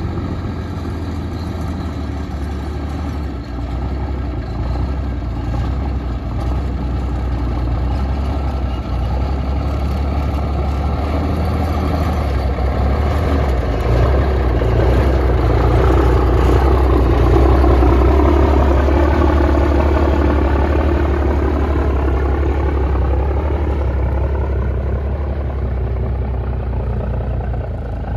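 1973 Autocar KK truck's diesel engine running with a deep, steady rumble. It grows louder to a peak about two-thirds of the way through, where its tone bends in pitch, then eases off.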